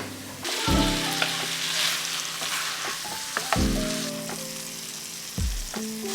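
Food sizzling as it fries in a pan, a steady hiss, over soft background music with slow chord changes.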